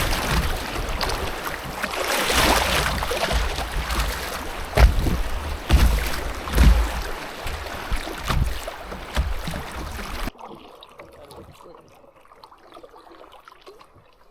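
Canoe out on the river: rushing water noise with wind buffeting the microphone and a few sharp knocks. The sound cuts off abruptly about ten seconds in, leaving a quiet stretch with faint clicks.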